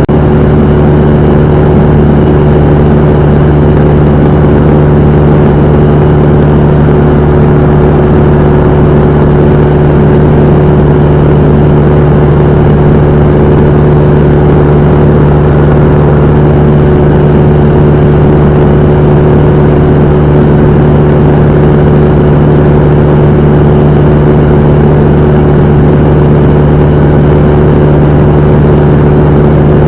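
Cessna 172M's four-cylinder Lycoming engine and propeller running steadily, a loud constant drone with no change in power.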